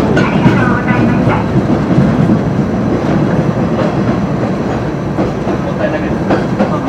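KiHa 350 diesel railcar running along the line, heard from inside its rear cab: a steady rumble of engine and wheels on the rails, with irregular clacks as the wheels cross rail joints and a set of points.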